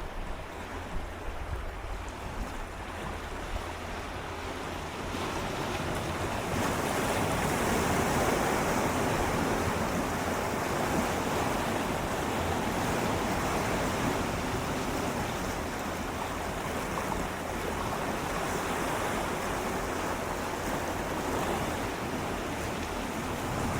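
Gentle sea waves swirling and lapping against shoreline rocks, a steady wash that swells about five seconds in and slowly eases, with some wind on the microphone.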